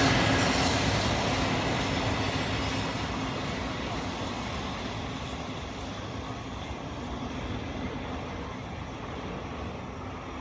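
Freight train running past, its wheel and rail noise loud at first and fading steadily as it moves away.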